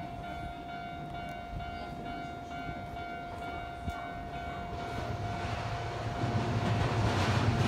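Keio 1000-series electric commuter train approaching along the track, its rumble and rail noise growing steadily louder from about five seconds in. A steady high tone sounds through the first part.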